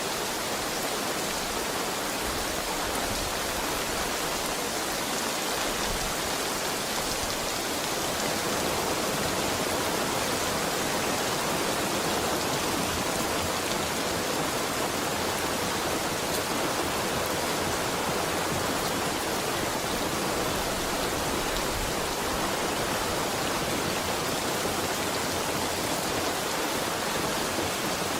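Heavy rain falling steadily, a dense even hiss, slightly louder from about eight seconds in.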